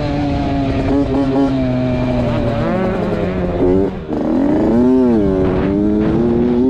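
Motocross bike engine revving through a lap. The pitch slides down over the first few seconds, cuts out sharply for a moment just before four seconds in, rises and falls once quickly about five seconds in, then climbs again.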